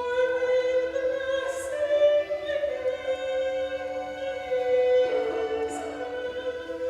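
Choir singing long, held notes, the pitch moving to new notes about two seconds in and again about five seconds in.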